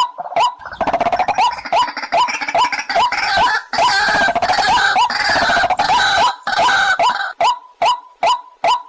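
White-breasted waterhen calling: a fast series of short, hooked croaking notes, about three a second. From about half a second in to about seven seconds, louder, harsher overlapping calls crowd in over the series, which then runs on alone.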